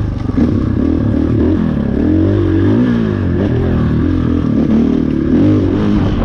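KTM 500 EXC dirt bike's single-cylinder four-stroke engine under way, its revs rising and falling repeatedly as the throttle is worked.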